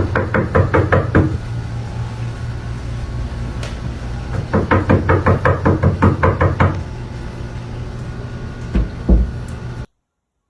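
Two quick runs of knocking, about seven knocks a second, over a steady low hum, followed by two dull thumps; the sound stops abruptly near the end.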